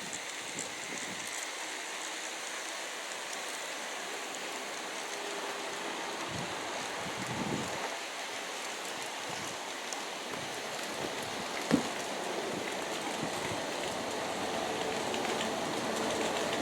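G-scale model coal train rolling along outdoor track: a steady hiss of wheels on rail that grows a little louder toward the end, with one sharp click about twelve seconds in.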